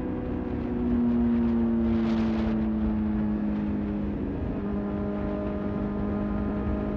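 Motorcycle engine running at a steady cruise with its pitch sinking slowly, heard over a constant low rumble. The note breaks briefly about four seconds in, then holds. A short rush of noise comes about two seconds in.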